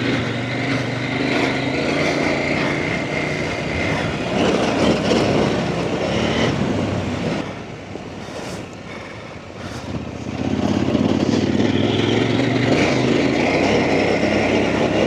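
Off-road trail motorcycle engine running under way, easing off for a few seconds in the middle and then pulling harder again.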